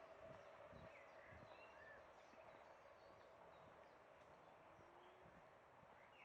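Faint outdoor quiet: small birds chirping in short calls that slide up and down in pitch, with soft footsteps on a path.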